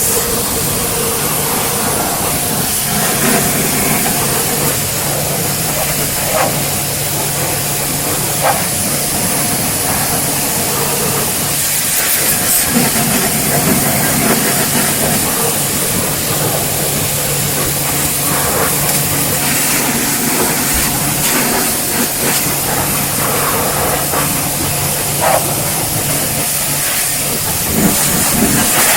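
Pressure washer spraying: a loud, steady hiss of the high-pressure water jet that starts abruptly, over a steady low hum.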